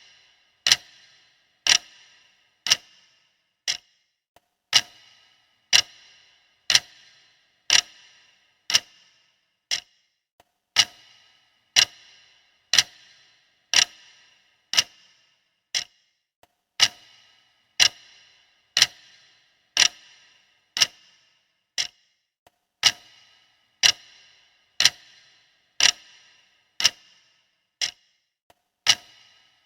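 Clock ticking steadily, about one tick a second, each tick a sharp click with a short metallic ring.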